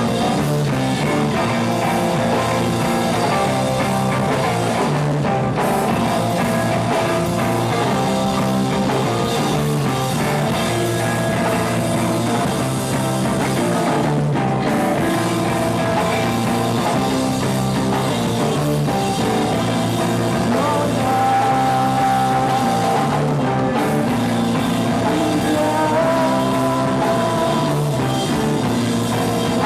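A rock band playing live, with electric guitar and drum kit.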